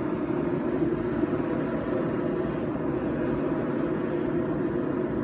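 A forge running with a steady, even rushing noise, with no hammer blows.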